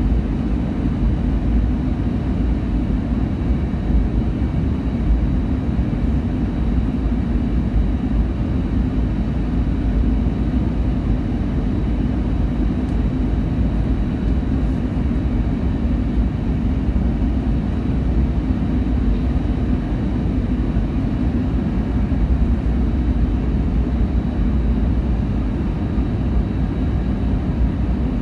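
Steady low rumble of an aircraft in flight, heard from inside the cabin: engine and airflow noise, with a faint thin high whine held throughout.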